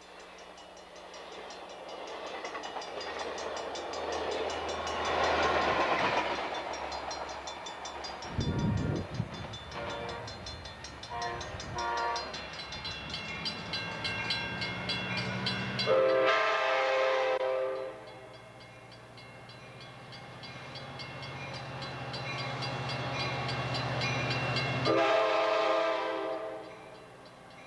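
Diesel-hauled passenger train passing and sounding its air horn: a couple of short toots about 11 seconds in, then two long blasts, one around 16 seconds in and one around 25 seconds in, over the rumble of the train running by.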